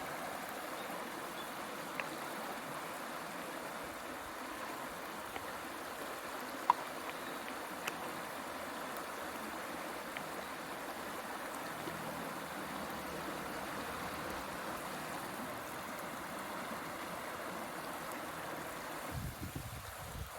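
A river flowing steadily with an even rushing sound, broken by a few sharp clicks, one of them noticeably louder about a third of the way in.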